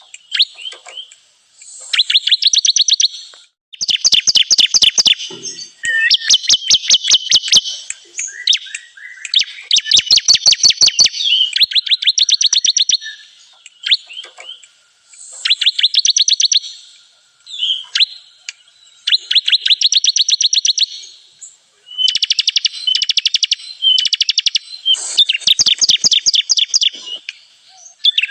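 Ciblek kristal (bar-winged prinia) song: loud, rapid trills repeated phrase after phrase, each lasting about one to two seconds, with short pauses between them.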